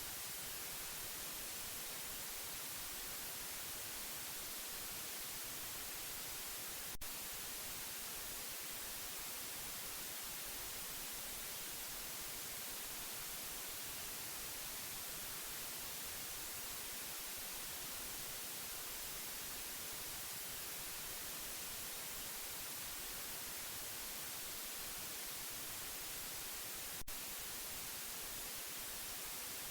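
Steady white noise: an even, unchanging hiss, strongest in the highs. Two brief clicks break it, about seven seconds in and again near the end.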